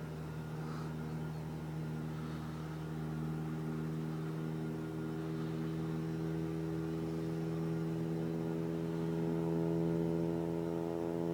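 Steady drone of piston aircraft engines at an even pitch, slowly growing louder.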